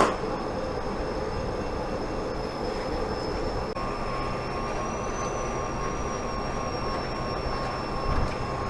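Vacuum cleaner running steadily during a car's interior clean: an even motor and suction rush with a thin high whine that rises slightly and settles, and a second, lower tone joining about four seconds in.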